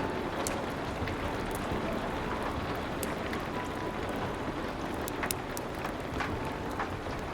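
Steady rain hiss with scattered sharp crackles and pops from a wood fire.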